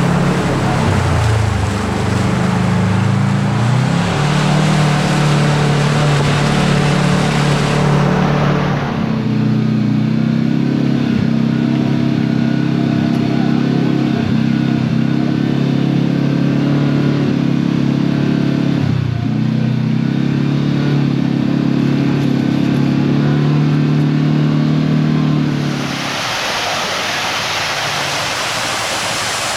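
Side-by-side UTV engine running at low revs, its pitch dipping and picking up again every few seconds as it crawls along, with a loud rushing noise over it for the first several seconds. About 26 seconds in, the engine gives way to the steady rush of flowing water.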